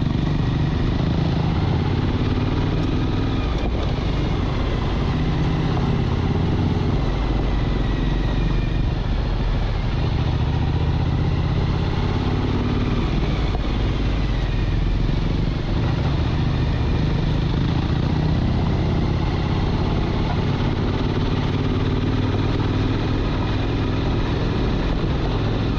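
Motorcycle engine running steadily under way, its pitch shifting a little with the throttle.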